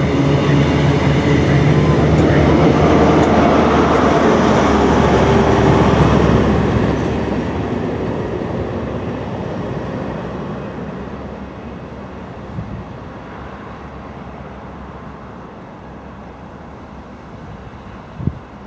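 Grand Central InterCity 125 (HST) running past close by: coaches rumbling over the rails together with the diesel drone of a Class 43 power car, fading steadily as the train draws away from about seven seconds in. A short knock near the end.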